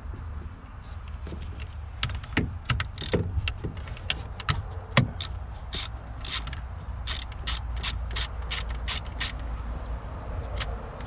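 Ratchet wrench working a 13 mm fastener to disconnect the car battery: a few knocks and clicks, then a run of sharp, even ratchet clicks at about three to four a second that stops near the end.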